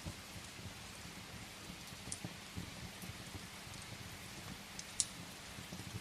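Steady rain with crackling firewood in a fireplace, giving a few sharp pops; the loudest pop comes about five seconds in.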